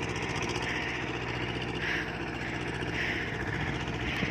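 Tractor's diesel engine running steadily, with a higher-pitched sound recurring about once a second above the engine hum.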